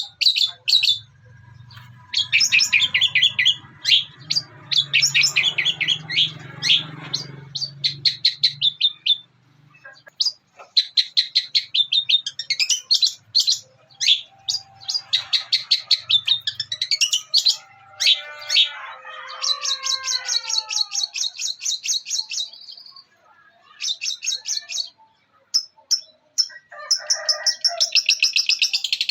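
Long-tailed shrike (cendet) singing a fast chattering song of rapidly repeated chirps, with mimicked calls such as house sparrow chatter. There is a run of falling, gliding notes just past the middle, and a low hum sits underneath during the first third.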